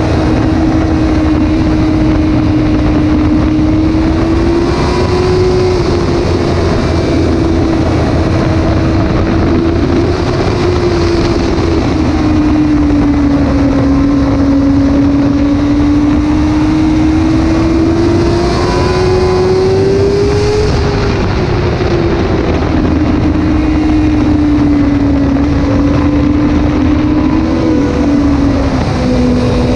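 Suzuki GSX-R 600 inline-four engine heard onboard at high revs under heavy wind noise. Its pitch climbs and falls gradually with the throttle, with a drop about two-thirds of the way through and another near the end.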